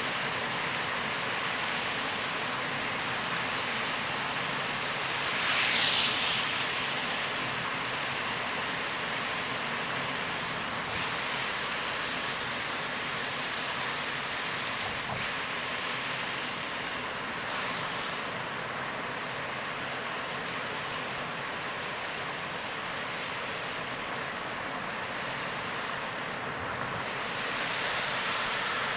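Steady rush of heavy rain and tyres on a soaked road while a car drives through a downpour. There is a brief louder surge about six seconds in and smaller swells later.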